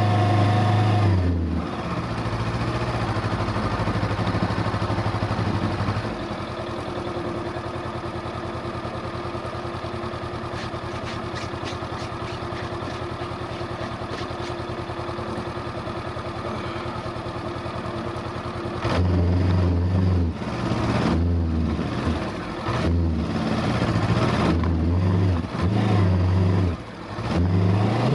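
2020 Honda CB500X's parallel-twin engine: it drops off the throttle about a second and a half in, runs steadily at low revs for a long stretch, then is opened up again in a series of short bursts with brief let-offs between them as the bike works through soft beach sand.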